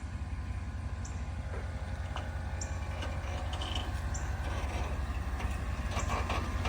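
ATV engine running steadily, with scattered clicks and rattles over its low drone.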